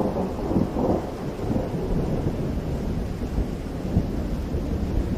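Rain falling in a forest: a steady, deep wash of noise, heaviest in the low end, swelling slightly near the start.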